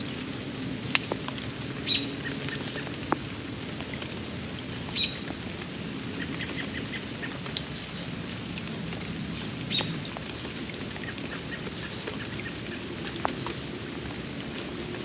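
Steady rain falling on a backyard pond, with scattered sharp drips. A bird gives a short, high call three times, a few seconds apart.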